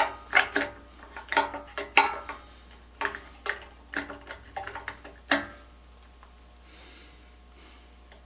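A run of sharp metallic clicks and clinks, about a dozen irregular strikes with a short ring, from hand tools and metal parts being handled. They stop about five seconds in.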